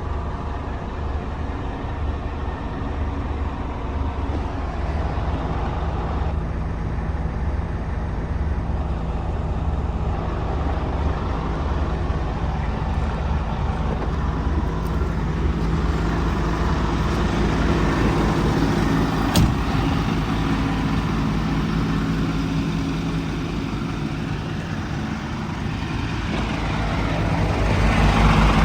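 Diesel engine running steadily, getting louder near the end.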